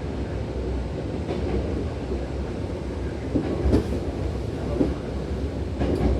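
Hankyu Takarazuka Line electric train running, heard from inside the passenger car: a steady low rumble with a few sharp clacks of the wheels over rail joints, the loudest about halfway through.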